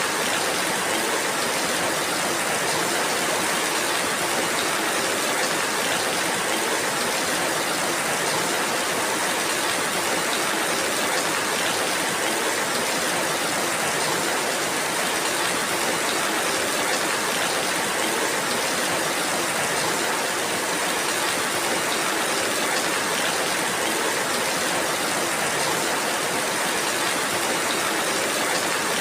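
Steady rainfall, an even hiss that never lets up, with no single drops or knocks standing out.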